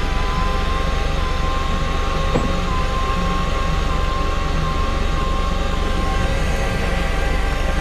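Fishing boat's engine running steadily, a low rumble with a steady whine over it.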